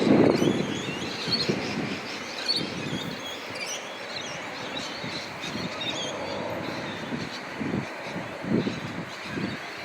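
An airplane passing overhead, its rushing noise loudest in the first second and then fading into a steady distant drone, with birds chirping throughout.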